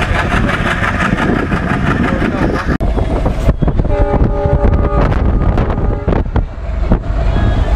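Passenger train running, heard from an open coach doorway: a heavy rumble of the moving coach with wind noise on the microphone. The sound cuts off sharply about three seconds in and picks up again straight away, with a short tonal sound in the middle of the second part.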